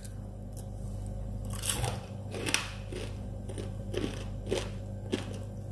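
Someone biting into and chewing a crispy deep-fried green pea vada: a run of sharp crunches, about two a second, starting about a second and a half in. The crunch is the sign of a vada fried crisp.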